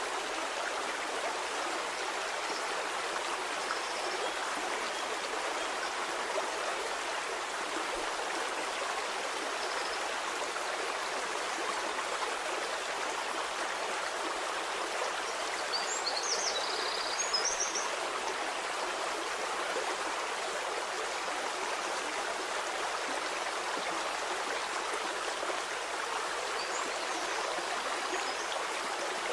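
A stream of flowing water rushing steadily and evenly, with a few brief high chirps over it about halfway through.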